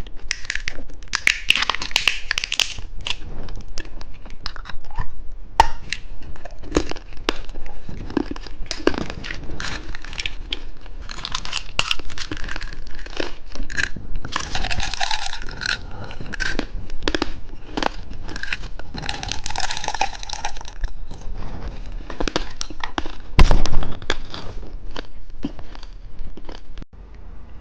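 Plastic candy wrappers crinkling and tearing as packets are handled and opened, with many small clicks and taps. One loud thump about 23 seconds in.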